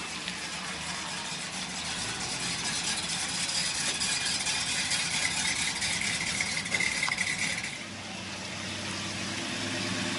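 Car engines running at idle with a vehicle moving past; the sound swells for several seconds and then drops off sharply about eight seconds in.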